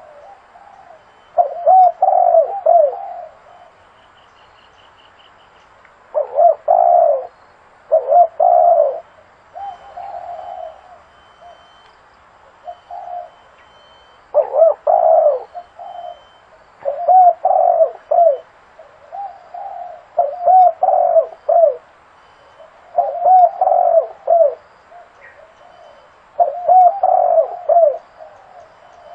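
Spotted dove cooing: short phrases of a few low, rounded coo notes, repeated again and again with pauses of one to a few seconds between them.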